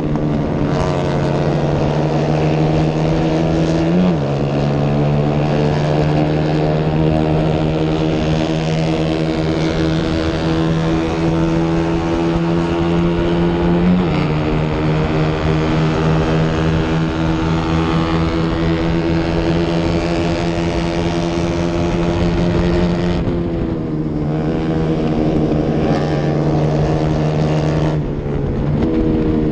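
Racing motorcycle engine heard from an onboard camera, running hard at high revs with wind rush. The note climbs and then steps down at gear changes about four and fourteen seconds in. It falls away as the bike slows around twenty-three seconds in, climbs again, then dips near the end.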